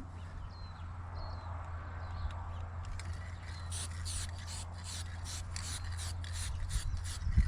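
Rhythmic scraping strokes on the van's painted body, about three a second, starting about three seconds in, over a steady low hum.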